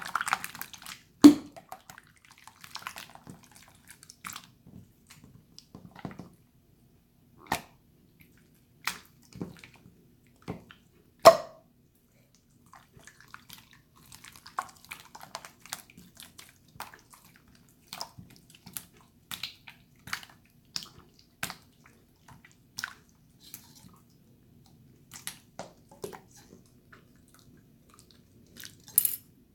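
Water slime being handled: irregular wet clicks, squelches and pops, with two louder pops, one about a second in and one near the middle.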